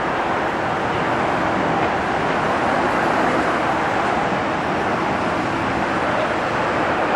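A steady rushing noise at an even, loud level, with no distinct events.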